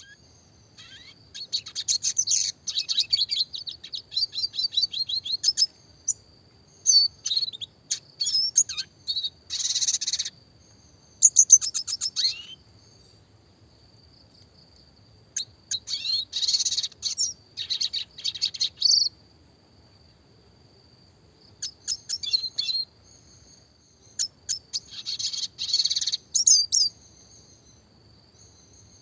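Red siskin (Spinus cucullatus) singing: high twittering song of rapid chirps and trills, in several bouts separated by short pauses.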